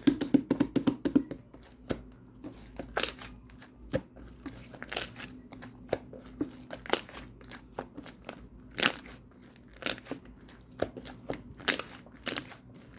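Crinkling and clicking handling noises: a quick run of clicks at the start, then separate short rustles and taps about once a second.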